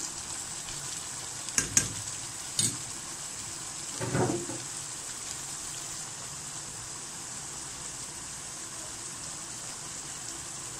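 Chicken pieces sizzling in a wok in their own juices and ginger-garlic paste, a steady hiss. A few short knocks come in the first few seconds.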